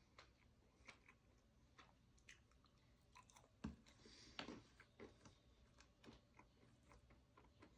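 Mixed nuts being chewed close to the microphone: quiet, irregular crunching made of small crisp cracks, with a louder crunch near the middle.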